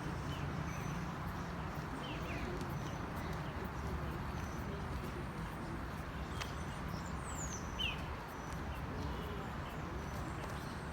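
Outdoor ambience: a steady rushing noise with a few short, falling bird chirps, one about two seconds in and a pair of calls near eight seconds.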